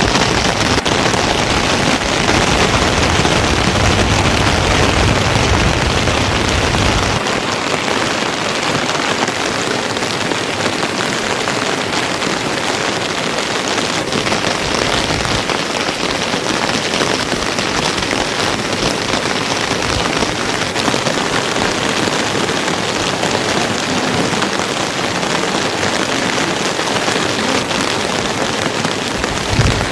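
Heavy rain falling steadily in a dense, even hiss. A low rumble underneath drops away about seven seconds in.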